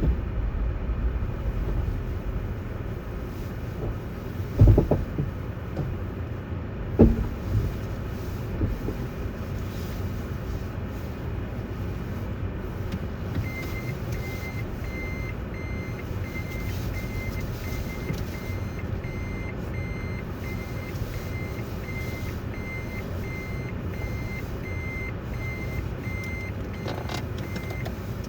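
Steady low rumble of a vehicle with two knocks early on; about halfway through a high electronic warning beep starts, repeating about twice a second for some fourteen seconds before stopping.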